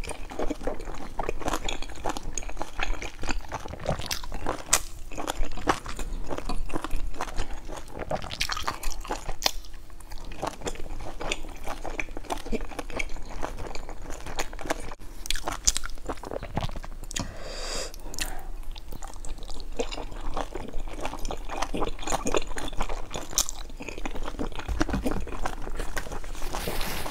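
Close-miked chewing and biting of large stuffed dumplings: wet mouth noises with dense, irregular crisp clicks and crackles throughout.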